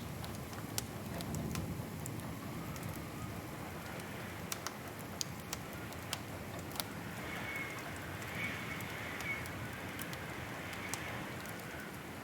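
Wood fire crackling: a steady soft rush with sharp pops and snaps scattered irregularly through it.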